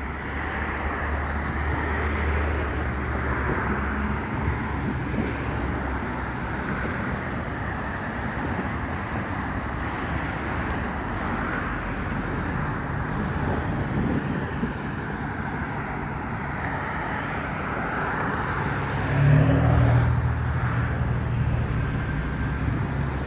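Steady road traffic: cars passing on the road, with tyre and engine noise, and a louder vehicle going by near the end.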